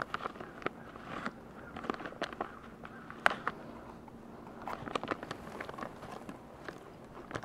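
Someone biting into and chewing a snack close to the microphone: irregular sharp crunches and clicks, the loudest about three seconds in.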